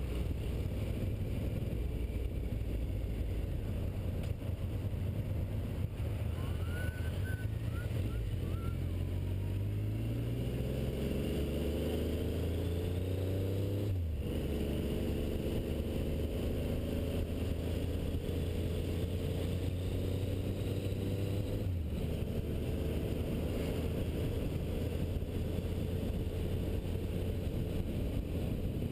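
Triumph motorcycle engine under way on an open road, its pitch climbing as it pulls through a gear and then dropping sharply at a gear change, twice, with a steady rush of road and wind noise underneath.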